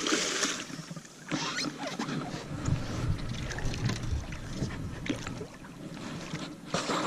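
Water noise around a small boat, with wind on the microphone and a few short hissy splash-like bursts.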